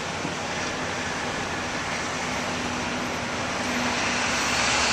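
Steady road and wind noise of a car moving slowly along a road, with a faint low engine hum, growing a little louder near the end.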